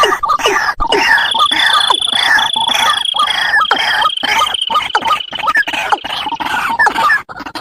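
Bird-lure playback of wetland rail calls, white-breasted waterhen and watercock, used by hunters to draw the birds in: many short calls, each sliding downward, repeated about two to three times a second. A steady high insect trill runs underneath for most of it.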